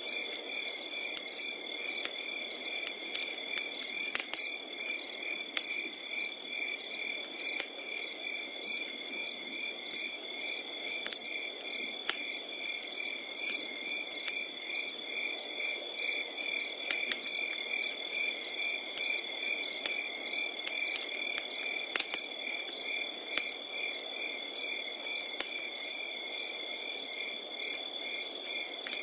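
Crickets singing in a steady pulsing chorus, over a crackling wood campfire with scattered sharp pops.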